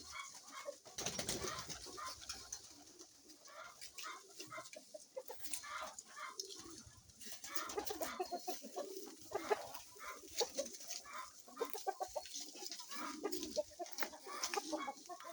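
Pigeons cooing and chickens clucking together, many short calls overlapping. A brief burst of noise comes about a second in.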